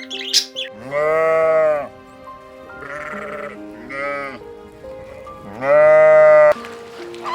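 Bleating: two long, loud bleats, about a second in and again near the end, with two shorter, fainter bleats between them. Background music with held notes runs underneath.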